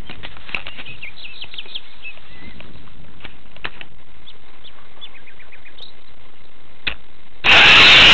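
Small birds chirping in short calls over a quiet background. Near the end it cuts suddenly to the loud rush and rising whine of a coaxial RC helicopter's brushless motors and rotors.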